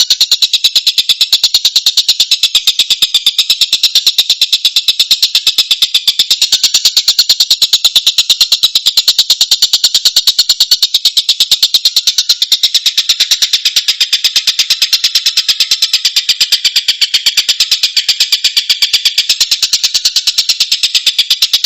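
Tengkek buto kingfisher calls in a fast, even, high-pitched pulsing trill held without a break, as in a looped recording made for training songbirds.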